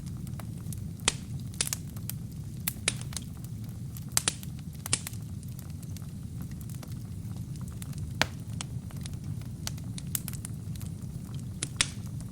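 Wood fire burning in a fireplace: a steady low rumble of flames with irregular sharp crackles and pops from the burning wood and kindling.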